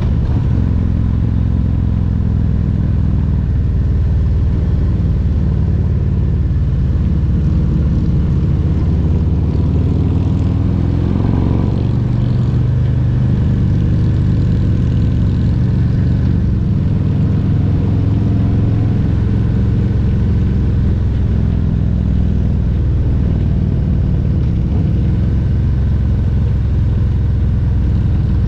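Harley-Davidson Road Glide Special's Milwaukee-Eight 114 V-twin engine running under way, a steady low note with a brief rise and fall in revs about midway through.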